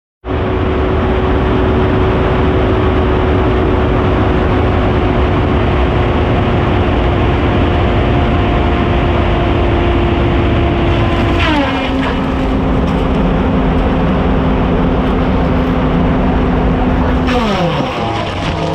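A saw's motor running steadily at high speed. About eleven and a half seconds in, its pitch drops a step, and near the end it glides lower as it slows.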